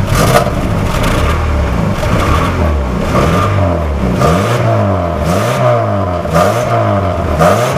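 2000 Chevrolet Cavalier's 2.2-litre four-cylinder engine running at the tailpipe and being revved up and down repeatedly, about once a second after the first few seconds, as it burns off a Seafoam engine treatment.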